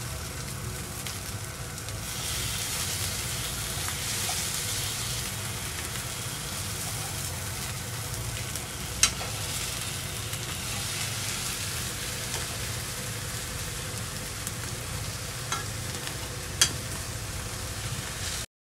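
Eggplant halves sizzling steadily in hot oil in a nonstick frying pan as they are turned, with a couple of sharp clicks of metal tongs against the pan.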